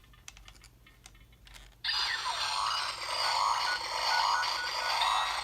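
DX Rocket Booster toy's electronic sound effect played through its small built-in speaker: a few faint clicks, then about two seconds in a loud rushing effect starts abruptly, with repeating sweeps and short beeps.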